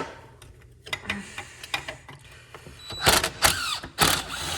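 Hand tools working on metal mower parts: scattered clicks and knocks, then about three seconds in a louder stretch of scraping metal with short squeaks.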